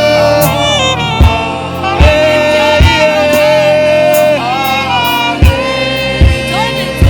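Live worship band music: a saxophone playing a slow, held melody with sliding notes over sustained keyboard chords and bass, punctuated by a few drum hits.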